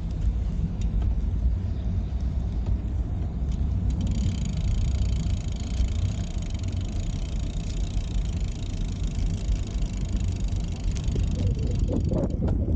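Steady low rumble of wind buffeting the microphone, with road noise from a bicycle being ridden.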